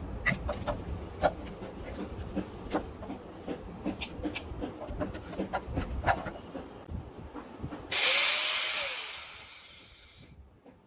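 Scattered clicks and knocks of handling, then about eight seconds in a DeWalt DWE750S 4-inch angle grinder's 750 W motor is switched on with a loud high whine. It is soon switched off and spins down, its pitch falling as it fades out over about two seconds.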